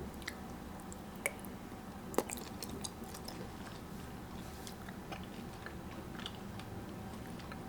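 A person chewing and biting food, with scattered small clicks and taps, the sharpest two a second or so apart near the start.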